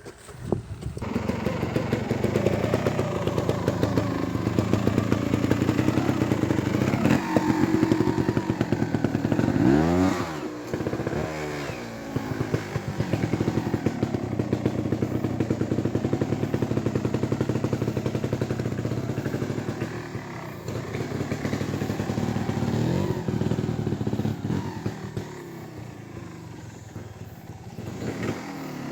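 Beta EVO trials motorcycle engine running at low speed, with quick throttle blips that sweep the pitch up and down about ten seconds in and again later.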